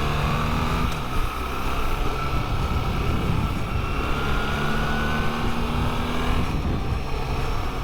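Motorcycle engine running at road speed over a steady rush of riding wind, its pitch climbing under acceleration, easing about a second in, then climbing again through the middle.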